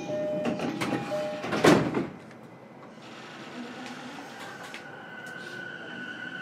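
E233-series train's door-closing chime beeping, then the sliding doors shut with a loud thump about two seconds in. Near the end the train starts off, its inverter and traction motor whine setting in as a steady high tone.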